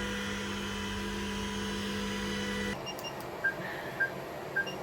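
A steady electronic hum with several tones that cuts off suddenly, followed by three short high beeps about half a second apart and then a faster repeating beep near the end.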